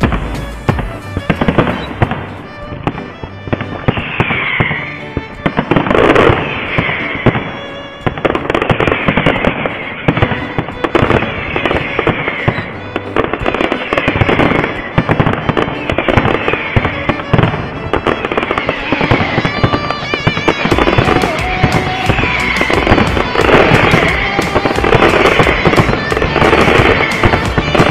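Aerial fireworks display: a dense run of shell bursts and bangs one after another, with crackling and high whistles over them. It grows louder and busier in the last third.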